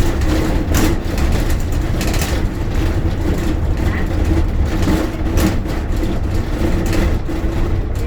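Inside a moving bus: the engine's steady low drone and road noise, with a few sharp rattles or clicks scattered through it.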